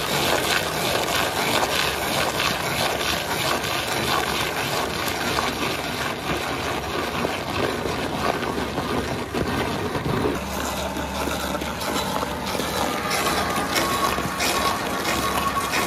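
Skid-steer forestry mulcher attachment running, its rotor grinding through soil and vegetation in a dense, steady churning noise. The sound changes abruptly about ten seconds in, where a steadier engine tone comes through.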